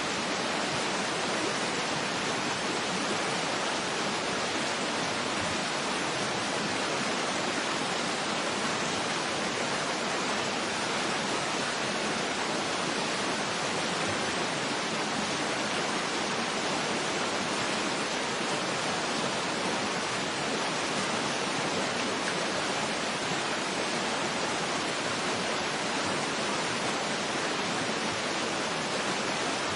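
Waterfall ambience: a steady, even rush of falling water, unchanging throughout.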